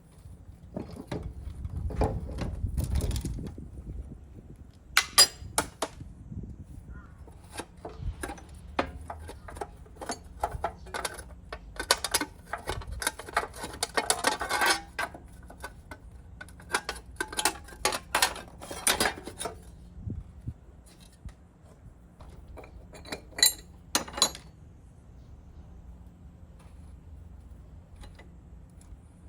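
Metal tools and parts clinking and knocking against each other in irregular handling, busiest midway, then dying away well before the end.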